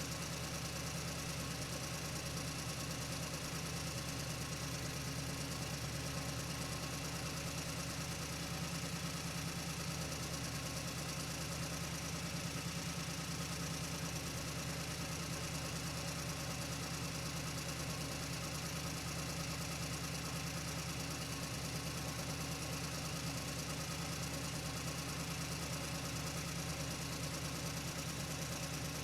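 Steady low hum with an even hiss, unchanging throughout, with no knocks or cutting sounds.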